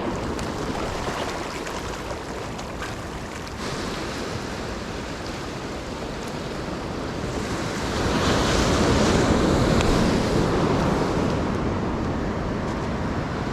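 Ocean surf breaking and washing up on the beach, a steady rush that swells loudest about eight seconds in and then eases off.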